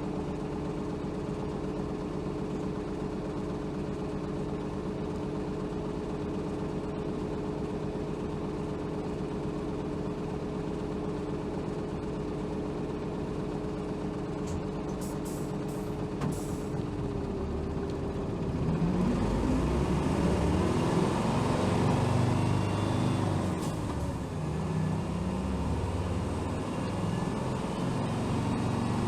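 Onboard sound of a 2007 Hino Rainbow HR city bus (BDG-HR7JPBE) with its diesel engine. The engine idles with a steady hum at first, with a few short clicks about fifteen seconds in. From about nineteen seconds the engine grows louder and its pitch rises and falls repeatedly as the bus pulls away and accelerates.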